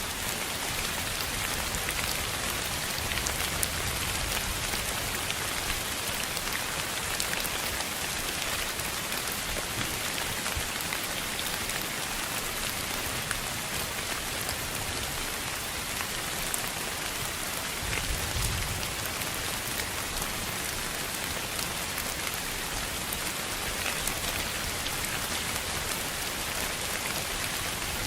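Steady, even hiss of sleep noise, pink noise by the title, with a rain-like texture of tiny scattered ticks. A brief low rumble comes about 18 seconds in.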